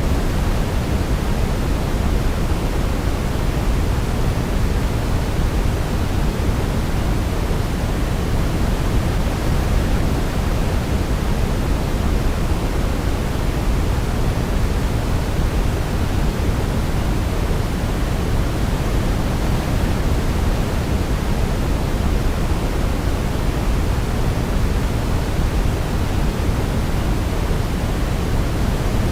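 Steady, unchanging sleep-aid noise, a deep rushing hiss weighted toward the low end with no melody.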